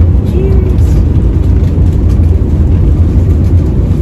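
Steady low rumble inside an Italo high-speed train carriage travelling at speed.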